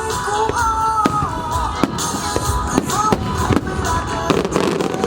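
Fireworks going off in repeated bangs and crackles, over show music with a sustained, gliding melody.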